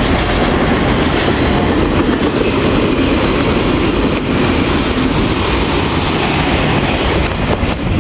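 A freight train of auto rack cars rolling past close by: a loud, steady rumble of wheels on rail, with a few sharp clacks near the end.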